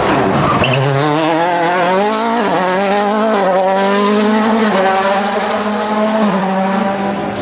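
A 2019 World Rally Car's 1.6-litre turbocharged four-cylinder engine at full throttle on a rally stage. The revs climb and drop through several gear changes.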